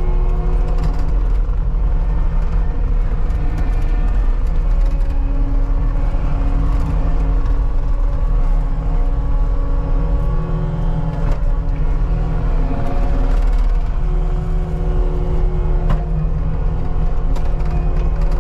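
Cat 279D compact track loader running under load while pushing dirt: a steady diesel drone with whining tones that shift in pitch now and then.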